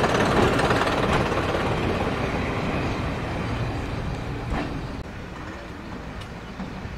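A heavy diesel vehicle running and moving away, its noise loud at first and fading steadily.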